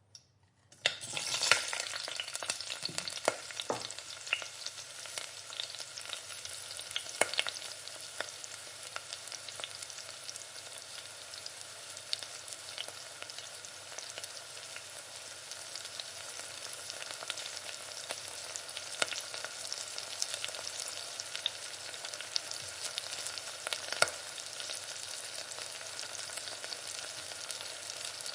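Food frying in hot oil in a pan: a steady sizzle full of small sharp pops and crackles, starting about a second in.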